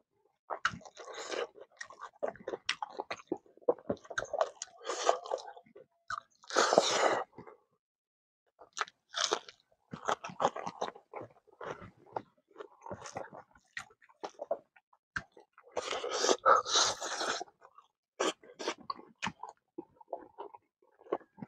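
A person chewing and biting a mouthful of smoked pork with kidney beans and rice, close to the microphone: irregular crunchy, wet mouth sounds with short pauses, louder about seven seconds in and again around sixteen to seventeen seconds.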